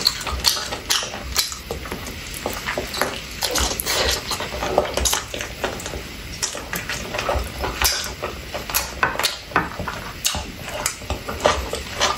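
A person chewing and biting into chicken wings, with irregular wet clicks and lip smacks.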